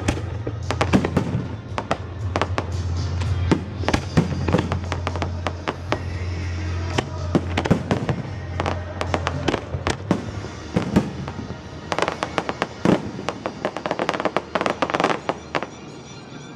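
Fireworks exploding: many sharp bangs and crackles in quick clusters over background music, thickest in a rapid volley a few seconds before the end, then dying down.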